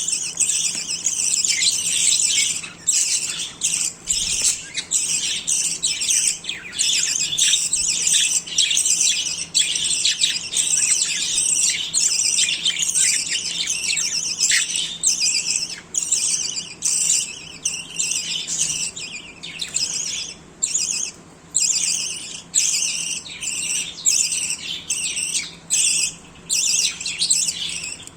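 Several budgerigars chattering, with rapid chirps and squawks overlapping almost without pause.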